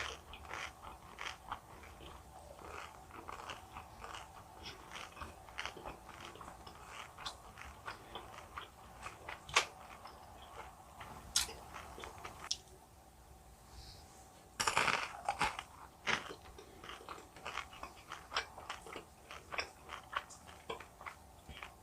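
Close-miked chewing and biting of jelly candies, with many small wet clicks and crunches. It goes quieter for a couple of seconds past the middle, then a louder burst of crunching follows.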